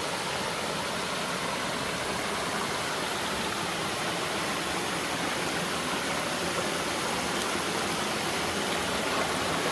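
River water flowing steadily past a shallow pool, an even rushing noise.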